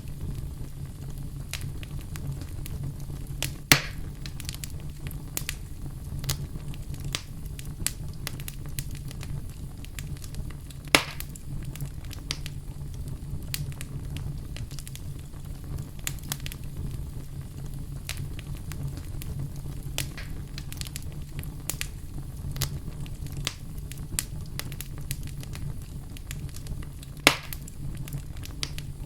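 Wood fire burning in a fireplace: a steady low rumble of flames with constant small crackles and three loud pops about 4, 11 and 27 seconds in.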